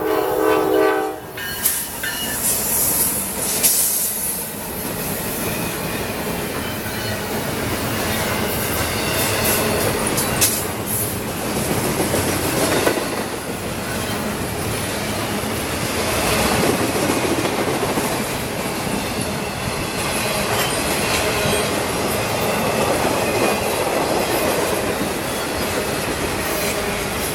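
Norfolk Southern intermodal freight train passing close by. The end of its multi-tone horn sounds in the first second or so, then a steady run of cars rolling by, with wheels clacking over the rail joints.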